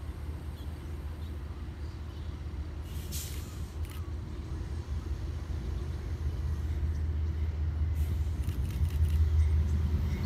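Low rumble of an approaching train, growing steadily louder, with a brief hiss about three seconds in.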